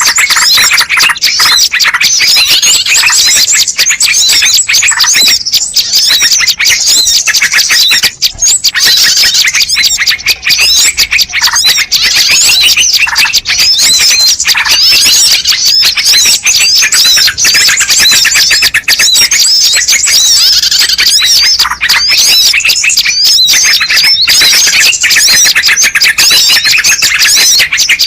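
Bird-lure recording of small birds chirping and twittering, a dense, unbroken stream of rapid high-pitched chirps.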